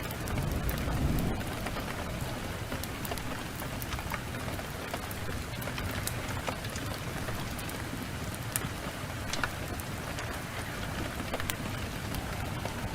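Steady downpour of heavy rain with scattered sharp crackles from a wood fire. A brief low rumble of thunder swells about a second in.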